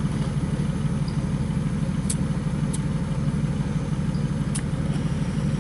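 An engine running steadily at idle: a constant low drone, with a few faint ticks.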